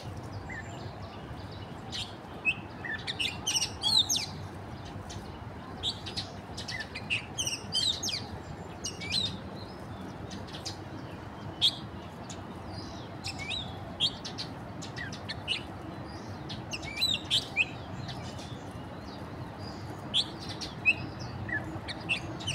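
Wild birds calling: many short, high chirps and whistles come irregularly, in clusters a second or two apart, over a soft steady background.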